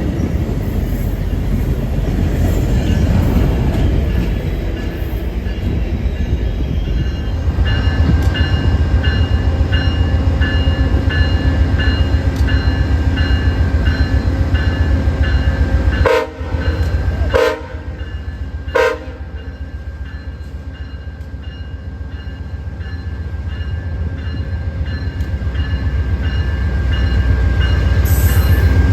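Train rumbling through the station with a regular ringing about twice a second, like a locomotive bell, and three short horn blasts in quick succession past the middle. The rumble swells again near the end.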